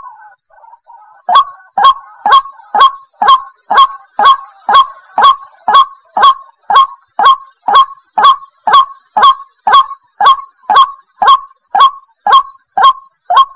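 White-breasted waterhen calling: a sharp, evenly repeated note about twice a second, resuming after a brief pause about a second in, over a faint steady high-pitched hiss.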